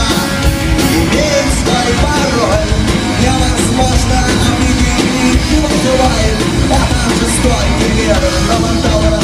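Rock band playing live, loud and dense, with drums and distorted electric guitars.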